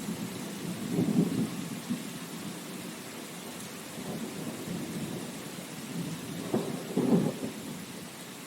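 Steady rain hiss with low rolling rumbles of thunder, one about a second in and a stronger one near the end.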